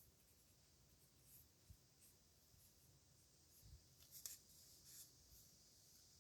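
Faint scratching of a nib pen moving across paper in short writing strokes, busiest about four seconds in, with a couple of soft low knocks.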